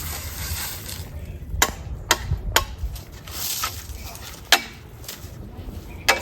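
Sharp wooden knocks as a bamboo post is struck, about five blows at uneven intervals, the loudest about four and a half seconds in.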